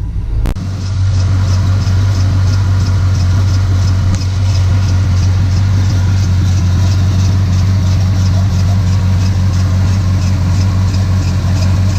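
LS-swapped Chevy C10's 5.3-litre V8 idling steadily through dual Thrush glasspack mufflers, with a light ticking about four times a second.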